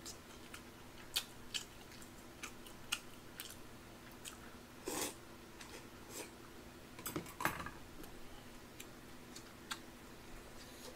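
Close-miked eating sounds as a man eats tteokbokki with chopsticks: faint chewing and mouth noises with small clicks scattered throughout, a louder burst about five seconds in and another cluster about seven seconds in. A steady low hum runs underneath.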